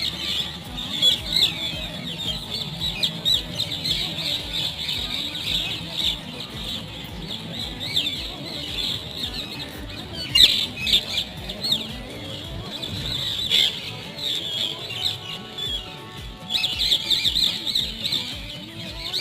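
Parrots calling with many short, shrill squawks and chirps in busy stretches, thinning out briefly past the middle and picking up again near the end, over background music with a steady low beat.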